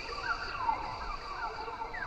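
Rainforest chorus: many quick chirping animal calls, mostly falling in pitch and several a second, over a steady high-pitched drone.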